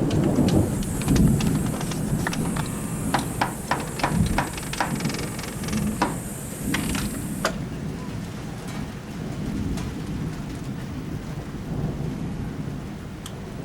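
Thunder rumbling through a rainstorm, with rain hissing and scattered sharp raindrop taps close by; the rain hiss and taps thin out about seven and a half seconds in, leaving the low rumble.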